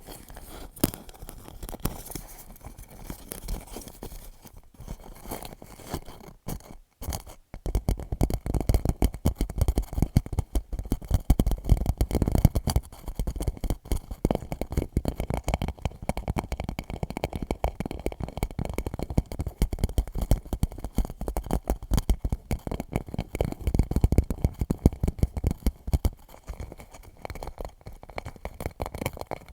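Rapid fingertip tapping and scratching on a clear plastic pouch, a dense patter of small clicks. It pauses briefly about seven seconds in, then comes back louder and denser.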